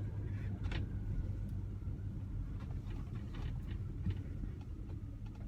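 1971 Oldsmobile Cutlass S engine running steadily as the car drives slowly, heard from inside the cabin as a low drone with a few faint clicks.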